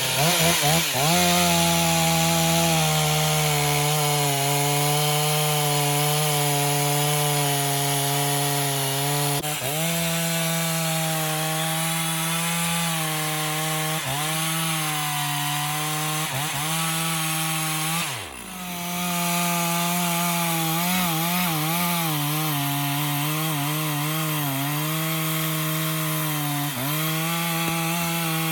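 Stihl 460 two-stroke chainsaw running at full throttle while bucking large logs, its pitch dipping again and again as the chain bogs down in the wood. About eighteen seconds in the revs fall away briefly and then climb back up.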